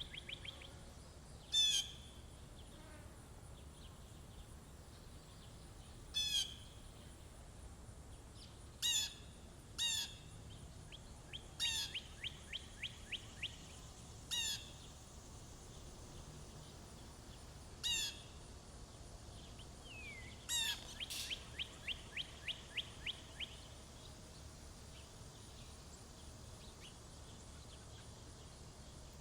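Small songbirds calling at a feeder: short, sharp single calls every few seconds, and three times a rapid trill of about five notes a second. The calls thin out and stop for the last few seconds.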